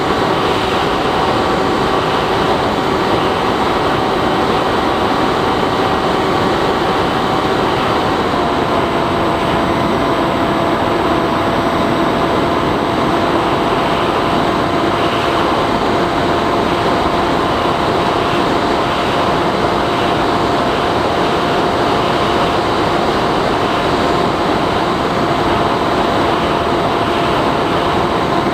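Bixler 3 RC plane's electric pusher motor whining steadily under a heavy rush of air, as heard from the camera on board in flight. Its pitch steps down slightly about eight seconds in.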